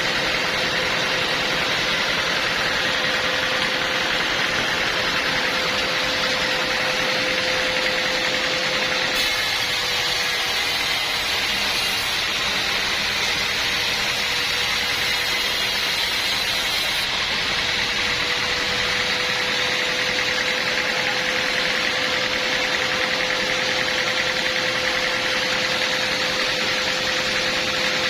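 Portable sawmill running steadily, with a constant engine drone and a held hum.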